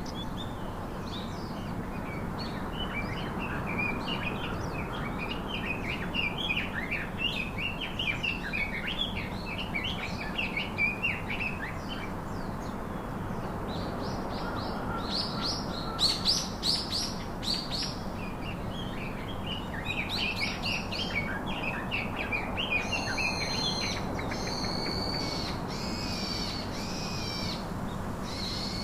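Songbirds singing: a long run of rapid, chattering twitters, with louder sharp chirps about halfway through and a series of evenly repeated call notes near the end, over a steady outdoor hiss.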